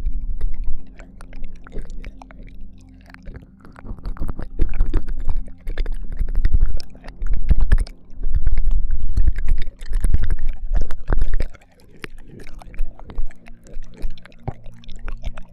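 ASMR ear-licking mouth sounds very close to a binaural microphone: wet licks, smacks and clicks, with heavy low rumbles in the middle stretch.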